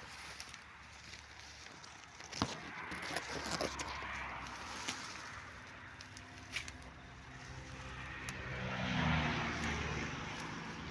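A motor vehicle's engine passing by, growing louder to a peak about nine seconds in and then easing off. Before it come scattered crackles and scrapes of someone moving through dry ground, with one sharp click about two seconds in.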